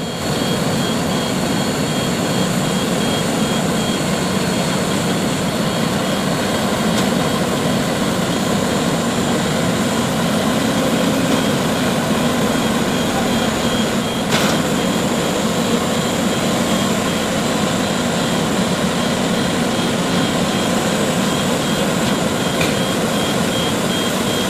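Heavy truck diesel engines running loud and steady, a dense continuous roar.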